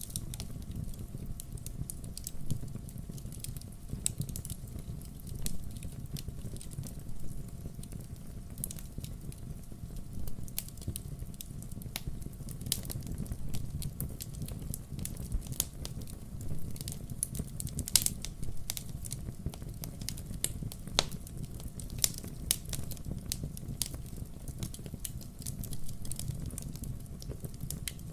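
Burning firewood crackling, with irregular pops and snaps over a steady low rush of the fire; one sharper pop about two-thirds of the way through.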